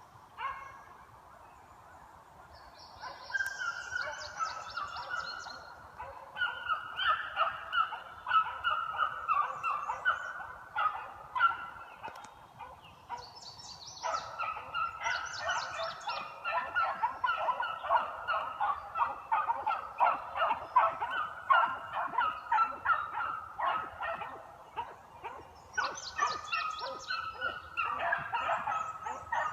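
A pack of beagles baying on a trail, many short overlapping calls from several hounds. The calls start about three seconds in, thin out briefly near the middle, and come thick and fast through the second half.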